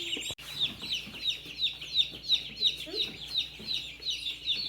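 A brood of day-old meat chicks and turkey poults peeping constantly, one bird calling loudly and regularly about three times a second over the others' chatter. The audio cuts out briefly a third of a second in.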